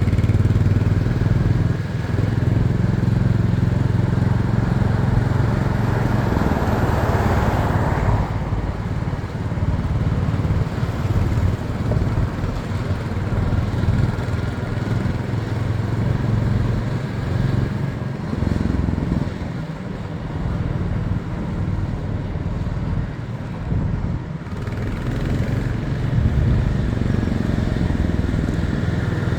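Motorcycle engine running under way during a ride, its level rising and easing a little over time, with a noisy rushing haze that swells and cuts off about eight seconds in.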